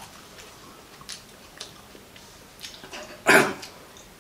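Quiet chewing of raw agati flowers, with a few faint crunches, and then a single short, loud cough-like burst from the mouth about three seconds in.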